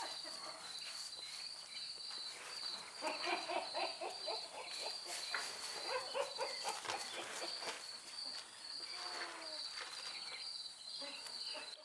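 Insects chirping in a steady, high, pulsing trill, with a few faint voice-like calls about halfway through.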